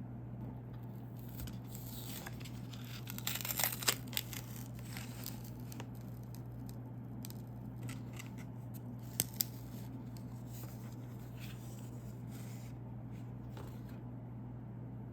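A snack wrapper being torn open and crinkled, loudest a few seconds in, with lighter rustling after. Two sharp clicks come close together about nine seconds in.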